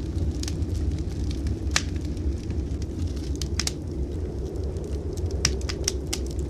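Wood fire crackling in a fireplace, with scattered sharp pops over a steady low rumble; a cluster of pops comes near the end.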